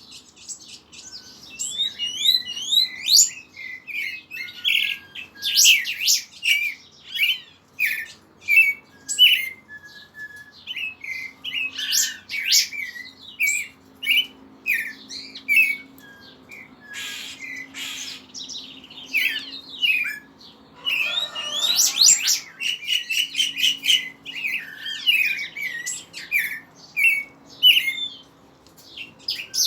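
Several kept songbirds chirping and singing together in a dense chorus of quick, varied chirps and short sweeping notes, without pause.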